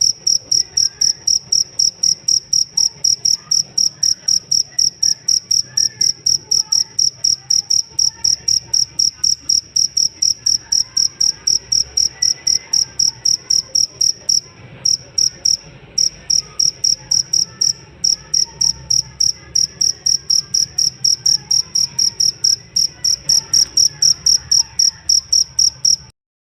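Cricket (jangkrik) chirping in a steady, even series of high-pitched chirps, about four to five a second, with a couple of short pauses about halfway through; the chirping cuts off suddenly just before the end.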